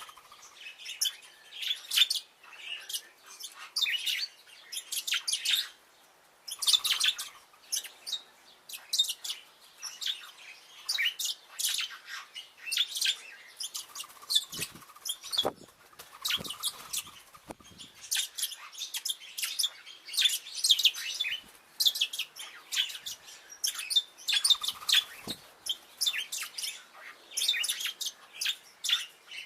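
Bourke's parrots chirping and twittering: rapid runs of short, high calls, one after another, pausing briefly now and then.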